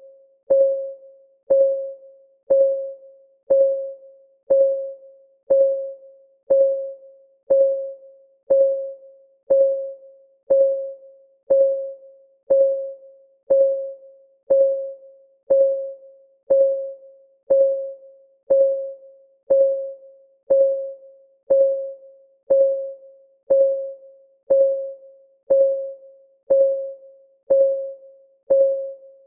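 Clock ticking sound for a countdown timer: one even tick per second, each a short ringing note of the same pitch that dies away quickly.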